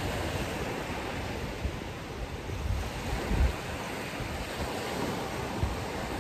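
Ocean surf washing onto a beach, a steady rush of waves, with wind buffeting the microphone in low thumps about three seconds in.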